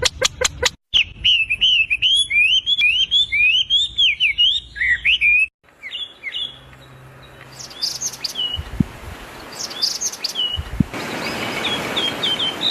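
Small birds singing and chirping in a few separate recordings: a fast, continuous warbling song for about five seconds, then sparser, high short chirps and twitters over a steady hiss. A quick run of repeated calls ends the first second before the first cut.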